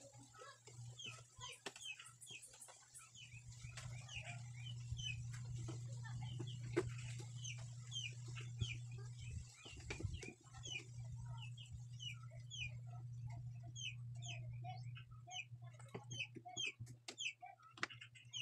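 Birds chirping: many short, falling peeps, several a second, over a steady low hum through the middle. There are a few sharp knocks, the loudest about seven seconds in.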